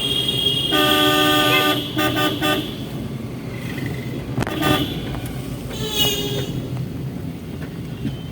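Vehicle horns honking in highway traffic over steady road and engine noise heard from inside a car. There is a long honk about a second in, then a few short quick beeps, and more brief honks later.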